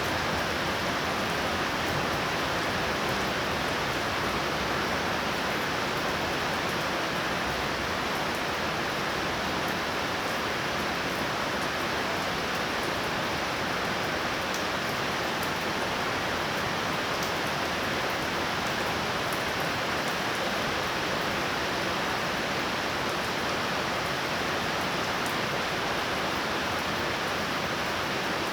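Torrential rain falling in a steady, unbroken downpour.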